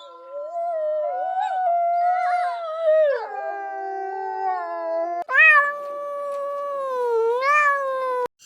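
Two long, drawn-out animal howls, the second beginning about five seconds in and swelling up in pitch near the end.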